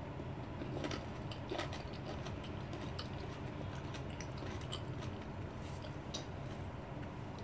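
A lemon wedge, peel included, being chewed with the mouth closed: faint, irregular crunchy clicks over a low steady hum.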